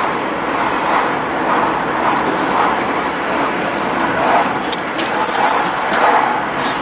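Steady road and engine noise of a moving vehicle, with a few light clicks and a short high squeal about five seconds in.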